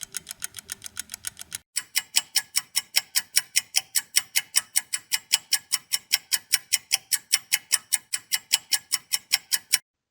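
Fast, even mechanical ticking, about five ticks a second, in the manner of a clock or timer. About a second and a half in it breaks off briefly and resumes louder and cleaner, stopping just before the end.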